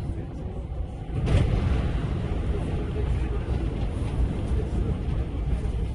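Low rumble of a Seibu 4000 series train running on the line, heard from inside the front car. About a second in it turns louder and harsher as an oncoming train passes close by on the next track.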